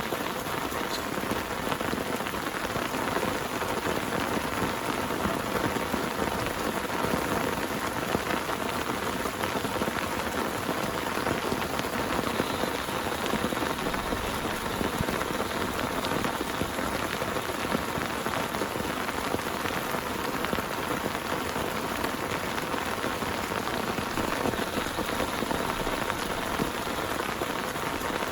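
Heavy rain falling steadily, a dense wash of drops hitting a surface at an even level throughout.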